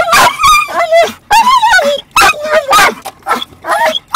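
A dog whining and yipping in a quick string of short, high, wavering cries.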